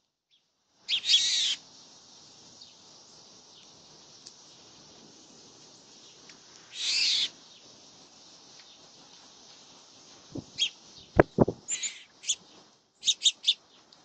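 Birds at a seed feeder: two harsh, high calls about half a second long, one about a second in and one near the middle, then a few sharp knocks and a quick run of short, high chips near the end.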